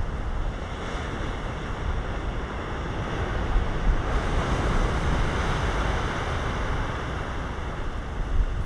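Ocean surf breaking and washing up a sandy beach and rocks, a steady rushing wash that swells a little about four seconds in. Wind buffets the microphone with a low rumble underneath.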